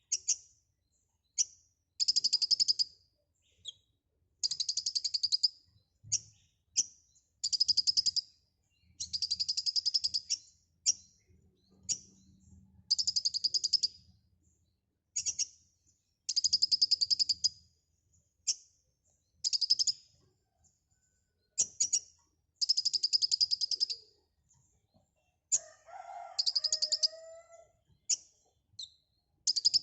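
A kolibri ninja sunbird singing hard: a string of fast, high chattering trills, each one to two seconds long, broken up by short sharp chips. About 26 seconds in, a lower warbling phrase sounds briefly.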